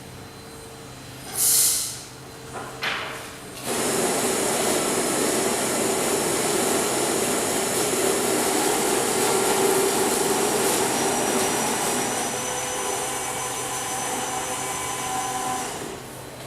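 Electric coffee grinder running steadily for about twelve seconds. It starts about four seconds in and cuts off suddenly near the end, after two short hissing noises.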